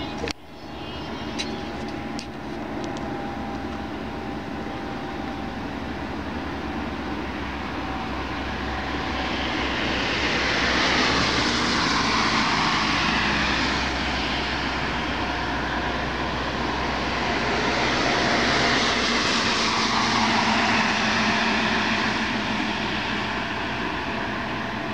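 Engine drone of a fixed-wing aircraft flying overhead at low altitude. It swells louder around the middle of the pass, and a faint steady tone within it slowly drops in pitch.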